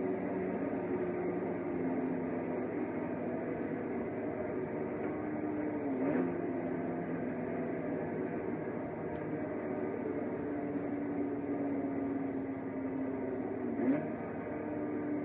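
2009 Mini John Cooper Works' turbocharged 1.6-litre four-cylinder engine pulling hard at high speed, its note holding steady and climbing only slowly, with a brief dip in pitch about six seconds in and again near the end.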